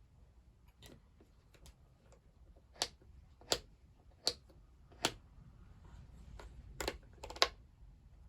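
A series of sharp clicks or taps of hard objects: a few faint ones, then six louder ones about two-thirds of a second apart in the second half.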